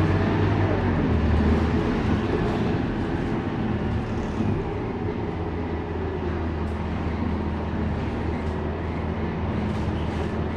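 Scania K230UB city bus running, its diesel engine a steady low drone with small shifts in pitch and level, over road and body noise.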